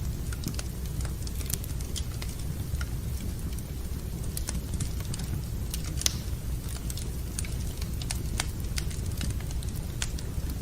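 Wood fire crackling in a fireplace: irregular sharp snaps and pops over a steady low rumble, with one louder pop about six seconds in.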